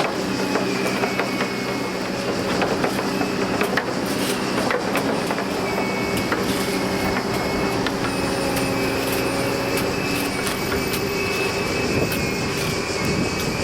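A diesel rail vehicle running on the track with a steady engine note. A thin, high steel squeal comes and goes, and metallic clicks and clanks are scattered through.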